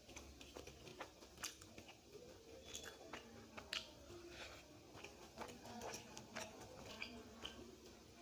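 A person chewing and eating a meal of rice and fried vegetables, faint, with many small irregular clicks and soft crunches of the mouth.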